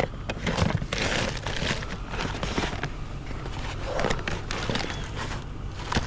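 Irregular clicks, knocks and rustling of objects being handled and moved about, over a steady low hum.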